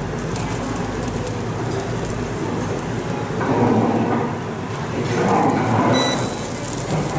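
Omelette eggs sizzling in a frying pan on an induction hob, a steady crackling hiss, louder in two stretches in the second half while the pan is tilted and the omelette folded.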